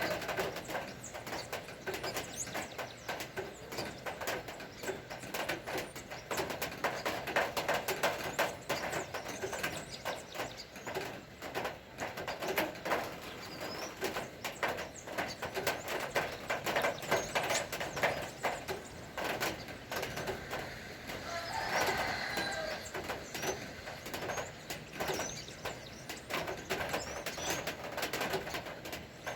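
Rain falling, a dense continuous patter of drops, with birds chirping now and then.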